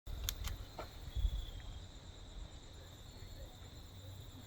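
Woodland ambience: insects droning steadily and high-pitched, with a low rumble and two sharp clicks in the first second.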